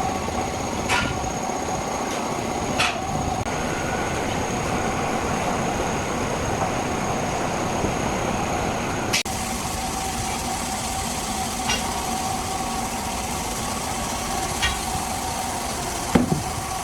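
Heavy machinery running steadily with a constant whine, broken by sharp metallic knocks every few seconds; the loudest knock comes near the end. About halfway the sound breaks off abruptly and resumes slightly quieter.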